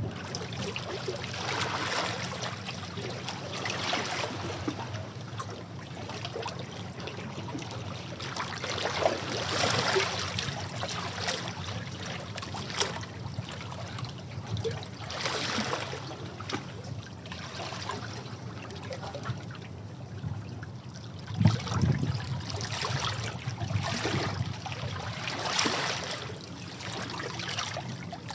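Sea waves washing against rocks, a steady rushing wash that swells with a new surge every two or three seconds; the sharpest, loudest surge comes about three quarters of the way through.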